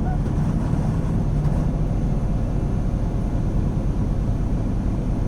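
Semi truck's diesel engine and tyre noise heard from inside the cab while driving at road speed: a steady low drone with road noise over it.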